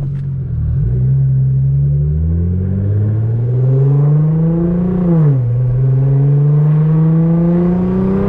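Straight-piped Nissan GT-R engine under hard acceleration, its pitch climbing steadily. About five seconds in, a quick upshift drops the pitch, and it starts climbing again.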